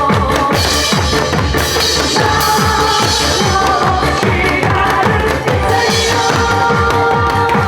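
Nanta drumming: a rapid run of drum strokes, several a second, beaten along with up-tempo Korean trot backing music.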